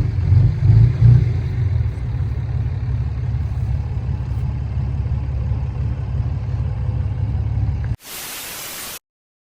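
Dirt bike engine idling with a steady low rumble. About eight seconds in it cuts off abruptly to a second of hiss, then dead silence.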